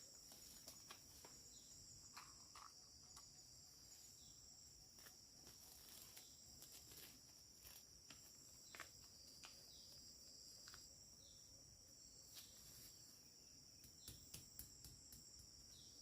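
Faint, steady high-pitched drone of insects such as crickets, with scattered small clicks and ticks.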